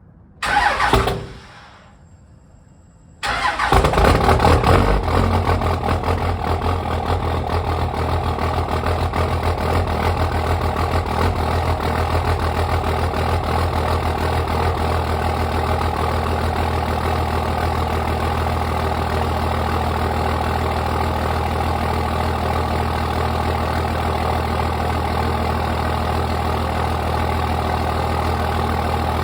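2002 Dodge Ram 2500's 5.9-litre 24-valve Cummins inline-six turbodiesel cold-starting through a 4-inch downpipe and 5-inch straight pipe. A short loud sound comes about half a second in, the engine catches about three seconds in, runs loudest for the first couple of seconds, then settles into a steady idle.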